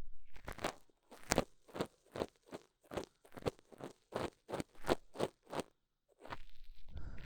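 Ear pick scraping at the microphone's ear: a run of short crunchy strokes, about two a second, then a longer rustling rub starting about six seconds in.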